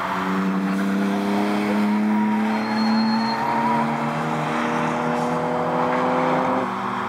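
A car's engine lapping a race track under load, its note held high and steady and climbing slowly in pitch, then dropping suddenly near the end as the revs fall.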